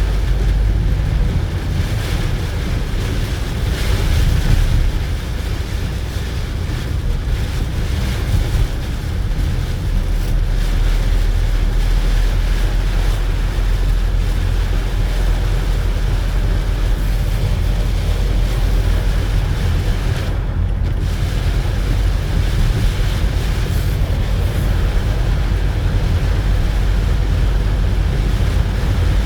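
A car driving in heavy rain, heard from inside the cabin: a steady deep rumble of tyres on the wet road under an even hiss of rain and spray.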